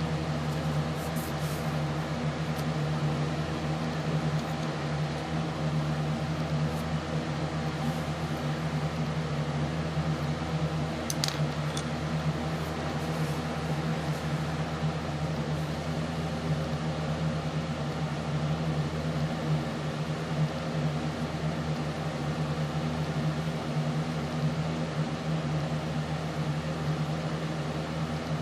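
Steady machine hum, like a fan or other appliance running: a constant low drone with a faint hiss over it, plus a few faint light ticks.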